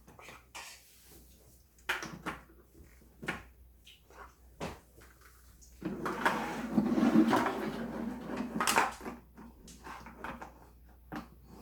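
Plastic Plarail toy train track pieces being handled and fitted together: several separate sharp clicks and knocks, with a stretch of plastic rubbing and rattling about six seconds in.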